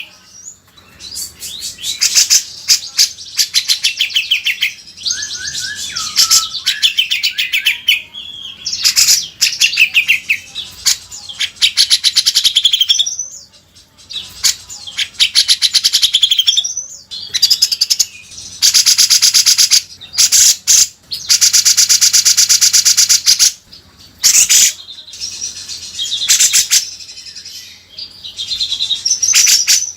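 Grey-cheeked bulbul (cucak jenggot) singing loudly and continuously: quick high chirps and whistled phrases broken by long, very fast chattering trills, the longest about two-thirds of the way through.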